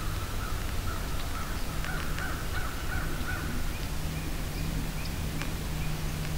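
A bird calling a run of short, evenly spaced notes for about the first half, then a few scattered higher notes, over a steady low hum.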